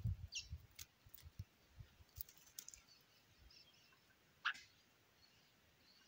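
Scattered short, high bird chirps, with one louder call sliding down in pitch about four and a half seconds in.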